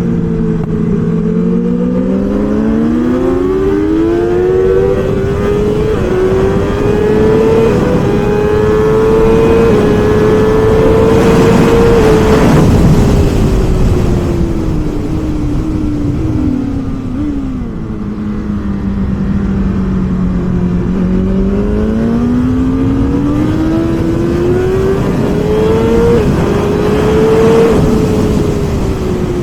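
BMW S1000RR inline-four engine at full race pace, its note climbing high through the gears in small steps, dropping back low under braking and climbing again. A rush of wind noise comes in when it is fastest.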